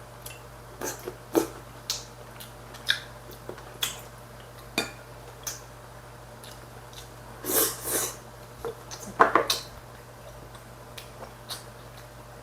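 Eating utensils clicking and clinking against dishes during a meal, in scattered single taps, with a couple of longer scraping sounds about two thirds of the way in.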